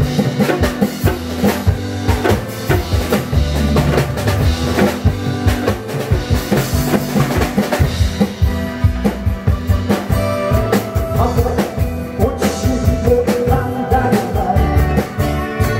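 Drum kit playing a busy rock beat, with snare, bass drum and rimshot hits, over instrumental music.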